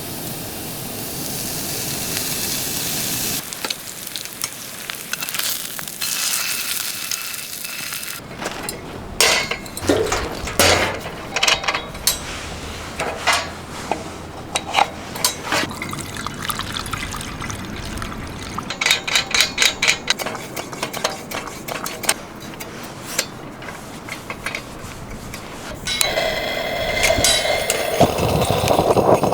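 Thick steak sizzling in a frying pan over a wood fire, with many sharp crackles and pops. The hiss changes abruptly about three and a half and eight seconds in, and a louder, lower rushing sound starts near the end.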